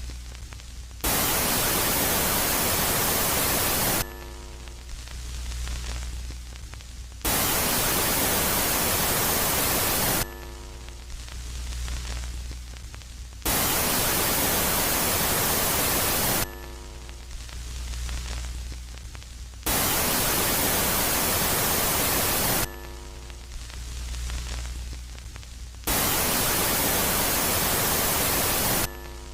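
Space-sound rendering of Jupiter's moon Megaclite switching between a loud and a quiet phase. Loud phases of static-like hiss, each about three seconds long, come five times, cut in and out suddenly, and alternate with quieter stretches of low hum and faint steady tones.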